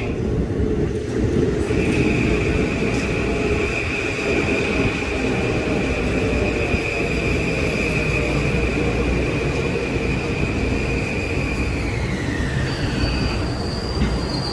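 Metro-North M8 electric multiple-unit train cars rolling slowly alongside the platform, with a steady low rumble. A high, steady whine sets in about two seconds in, slides down in pitch near the end, and a higher squeal joins it.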